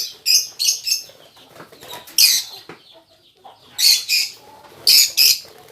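Lovebirds in an aviary giving shrill, high-pitched chirps, about nine in all in short clusters.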